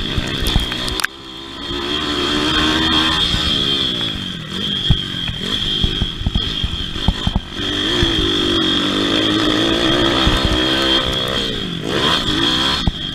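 Pit bike engine racing on a motocross track, revving up and down as the throttle is opened and shut. There is a sharp throttle cut about a second in, then another long climb in revs later on. Knocks and clatter and a steady high whine run under the engine.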